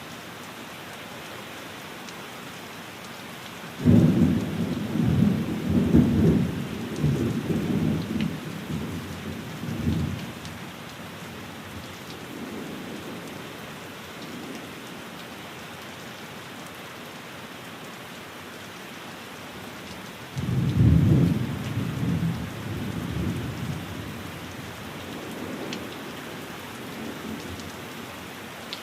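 Steady rain falling, with two low rolls of thunder: the first starts suddenly about four seconds in and rumbles on for several seconds, the second comes about twenty seconds in and fades out more gradually.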